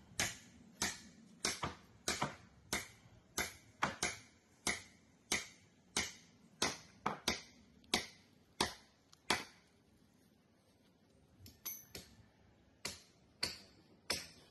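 Sharp clicks or knocks repeating about one and a half times a second, stopping about nine seconds in; a few more come near the end.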